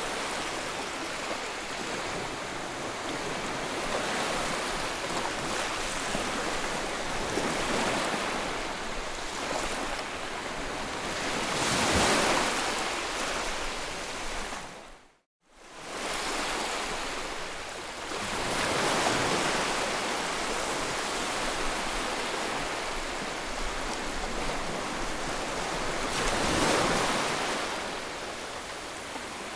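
Ocean surf: waves breaking and washing in a continuous rush that swells to a loud crest twice, about twelve seconds in and again near the end. About halfway through the sound dips and cuts out for a moment before the surf comes back.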